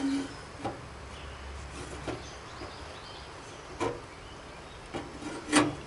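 Scattered knocks and clacks of the mower hood and grille being handled, about six in all, the loudest near the end.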